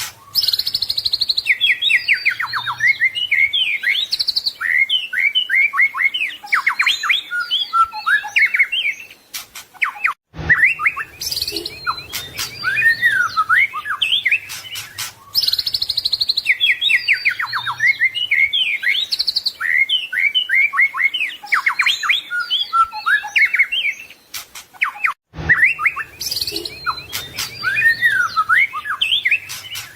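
White-rumped shama (murai batu) singing continuously: rapid, varied whistled phrases and trills, rich in phrases mimicked from other birds. The song breaks off briefly about ten seconds in and again about 25 s in, and the same run of phrases recurs about every 15 s.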